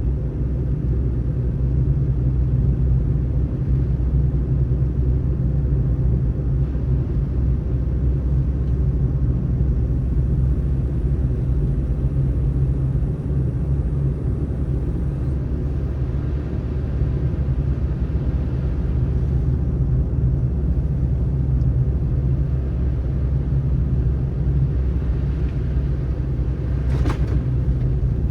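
Steady low road and engine rumble of a car driving on a snowy road, with one short click near the end.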